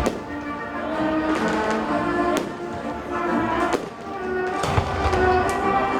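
Music playing over a fireworks display, with several sharp bangs of fireworks bursting through it.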